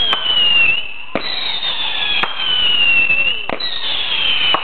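Whistling fireworks (screamers) going off in turn, each a loud high whistle sliding slowly down in pitch for about two seconds. One whistle ends just before a second in, new ones start at about one second and three and a half seconds in, with sharp pops in between.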